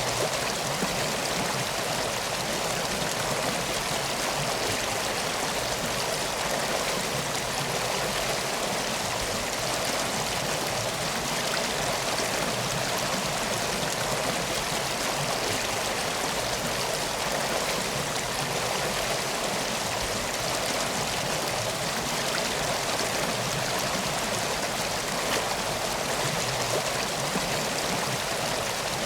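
Steady rushing of flowing water, like a stream, continuous and even throughout.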